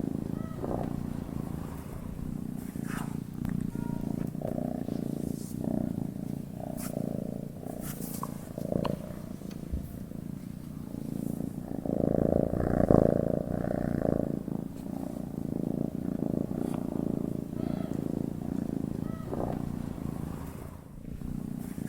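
Domestic cat purring steadily as it sleeps: a low, rhythmic rumble that swells louder about halfway through, then settles back.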